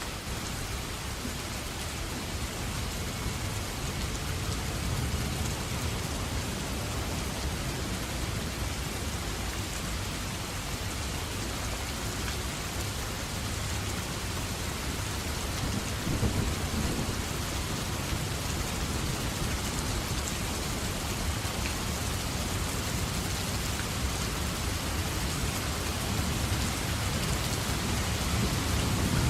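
Steady rain with thunder. A low rumble of thunder swells about halfway through, and a louder rumble begins right at the end.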